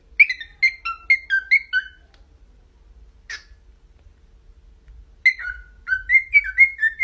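Pet bird whistling two quick runs of short, clear notes, each note dropping in pitch, about five a second. One run comes at the start, lasting about two seconds, and the other near the end, with a single short chirp in between.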